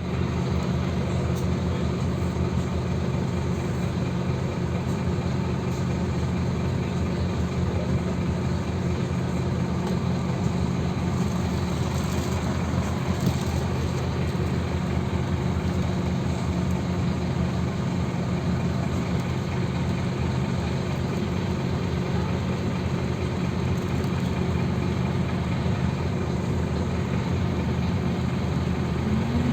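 Engine of a Scania OmniLink CK270UB city bus running steadily, its low hum holding an even, unchanging pitch throughout.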